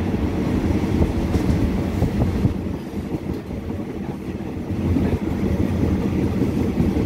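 Steady low rumble of a passenger train running along the track, its wheels on the rails, heard from inside the carriage by an open window.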